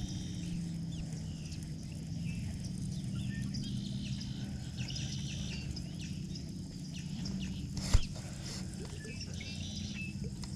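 Birds chirping and calling in short notes over a steady low hum, with one sharp knock about eight seconds in.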